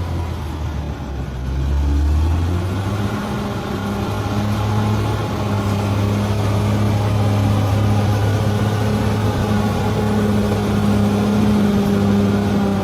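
Bulldozer's diesel engine running hard. Its pitch rises about two seconds in, then holds steady.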